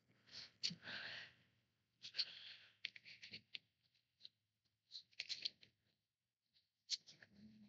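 Faint rustling and scattered light ticks of paper cardstock being handled as a cut-out paper bird is slipped into place on a card.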